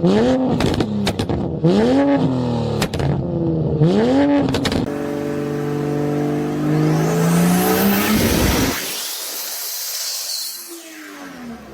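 High-revving performance engine, revved up and let fall about four times in quick succession with sharp pops, then held at a steady high rev for a few seconds. Near the end the sound changes abruptly to a fainter, falling engine note.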